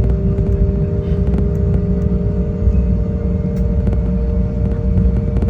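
Jet airliner engines heard from inside the cabin: a loud, steady low rumble with a few steady hum tones over it.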